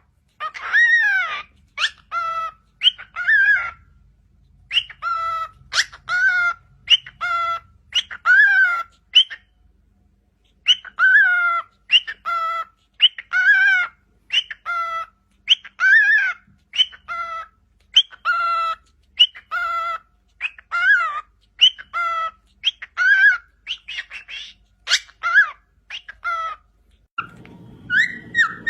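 A bird calling over and over in short, pitched calls, about one or two a second, with a brief pause around ten seconds in.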